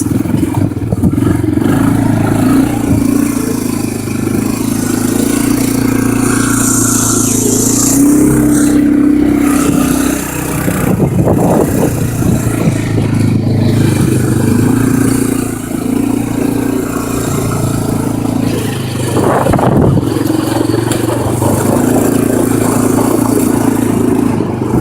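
Four-wheeler (ATV) engine running while being driven, its note easing off and picking up again a few times, with rattling and wind noise over it.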